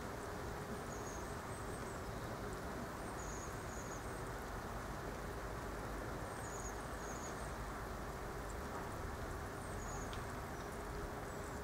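Small birds giving short, high chirps in little clusters every few seconds, over a steady outdoor rumble with a faint low hum.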